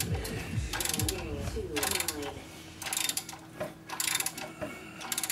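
Ratchet wrench being worked in repeated strokes, a rapid run of clicks about once a second.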